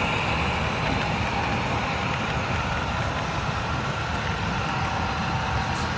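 Steady rumble of a running vehicle or engine, with a hiss above it and no distinct events.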